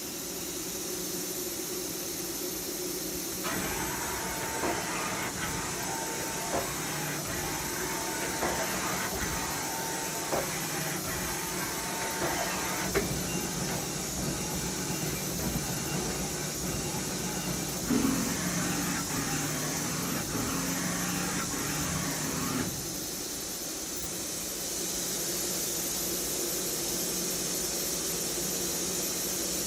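Fanuc Robodrill a-T21iF vertical machining center running under power, with a steady high hiss. From about four seconds in to about three-quarters of the way through, its motors add a whine that changes pitch in three steps, with scattered clicks and knocks, then it drops back to the hiss alone.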